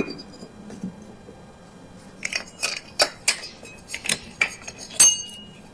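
Metal objects clinking and clattering during hand work. There is one sharp knock at the start, then from about two seconds in a quick, irregular run of about ten metallic clinks, some ringing briefly.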